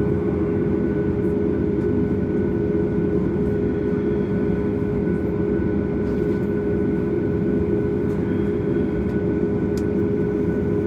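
Steady cabin noise inside a Boeing 737 MAX airliner: an even, low rumble with faint steady tones above it.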